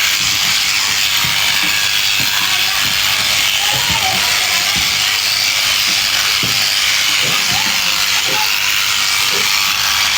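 Electric sheep shears running steadily with a hissing buzz as they cut through fleece, with scattered light knocks throughout.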